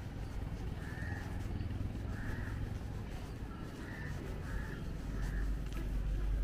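A bird calling outdoors: five short calls at irregular intervals of about a second, over a steady low rumble.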